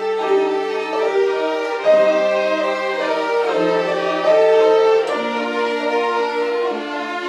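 An ensemble of violins playing a melody in long, smoothly connected notes over a held low note.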